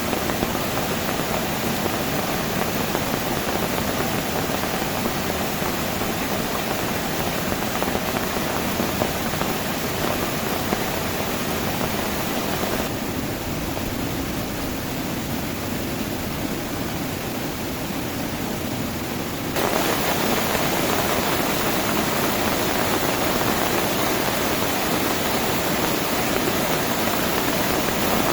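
Heavy rain pouring steadily, a dense even hiss. In the middle it turns duller and a little quieter for about six seconds, then returns abruptly at full strength.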